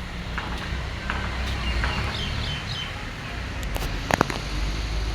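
Birds chirping in short, repeated calls, a few of them sliding down in pitch, over a steady low rumble. A few sharp clicks come about four seconds in.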